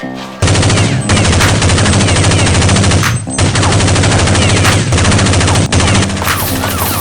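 Rapid automatic gunfire sound effect in long continuous bursts, briefly breaking off about three seconds in.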